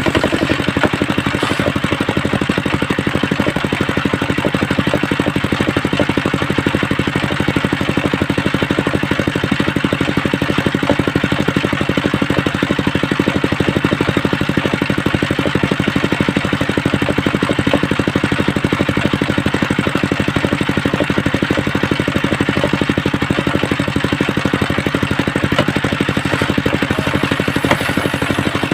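Homemade engine-driven circular saw rig running steadily, its engine firing in a fast, even beat under a steady whir.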